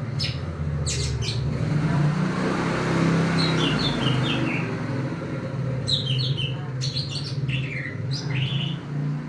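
Cucak ijo (green leafbird) giving sharp chirps and short runs of quick descending notes in clusters, fussy calls that the owner calls grumbling. A steady low hum runs underneath.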